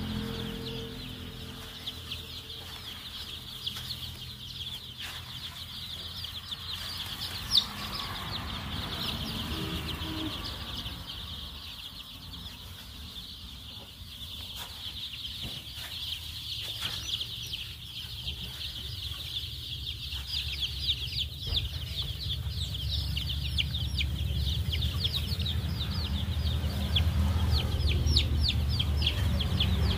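A flock of six-day-old Kaveri chicks peeping continuously in high, thin calls, many overlapping at once. A low rumble runs underneath and grows louder toward the end, and there is one sharp click about a third of the way in.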